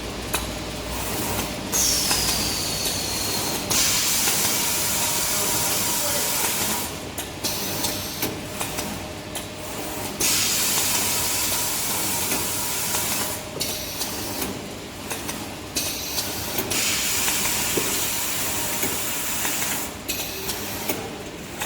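Tissue paper log band saw cutting machine running: repeated spells of loud hiss a few seconds long, four in all, over a steady machine hum, with a brief falling whine near the first.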